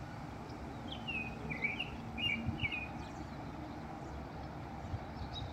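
A small songbird chirping: a quick run of short, high notes about a second in, lasting a couple of seconds, over a steady low outdoor rumble.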